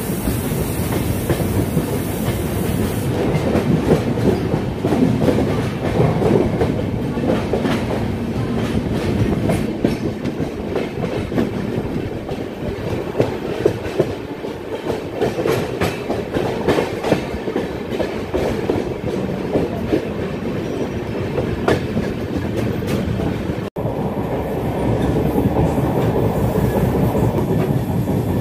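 Passenger train running through a station yard heard from aboard: a steady rumble of the coach with irregular clicking and clacking of wheels over rail joints and points. About three-quarters of the way through the sound cuts out for an instant and resumes.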